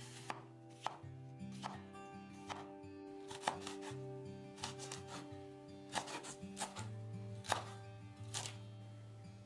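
A kitchen knife cutting vegetables on a chopping board, with irregular strokes about half a second to a second apart, over background music.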